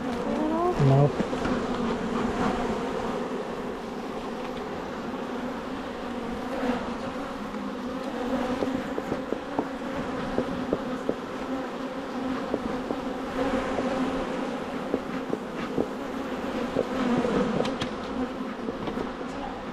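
Honeybee colony buzzing around an open hive, a steady hum with a buzz that rises in pitch shortly after the start. Faint scattered clicks sound over it.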